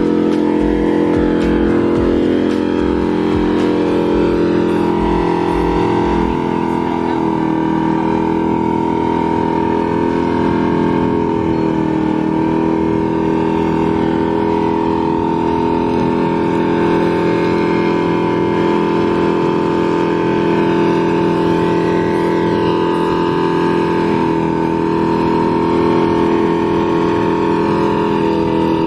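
An engine running steadily at a nearly constant speed, with slight dips in pitch a few times.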